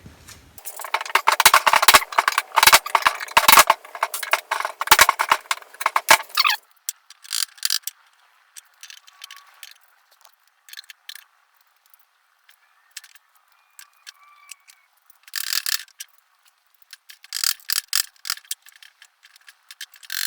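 Homemade walnut hand scraper scraping on a wooden chest of drawers: a quick run of scratchy strokes for the first several seconds, then only scattered clicks and short scrapes.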